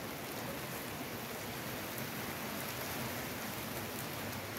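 Steady rain falling, its drops going pat-pat in an even hiss.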